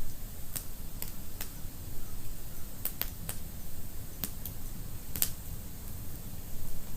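Wood fire crackling in a fireplace: irregular sharp pops and snaps, about ten of them, the loudest a little over five seconds in, over a low steady rumble of flames.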